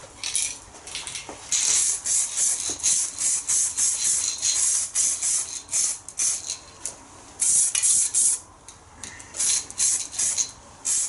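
Aerosol can of etch primer spraying in many short hissing bursts, with a few longer ones of about a second, as a very light first coat is dusted on.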